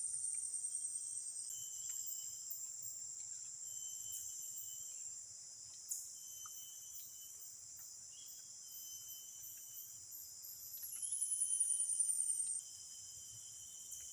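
Steady high-pitched insect chorus with scattered short chirps. Near the end a louder insect call swells, falls in pitch and cuts off suddenly.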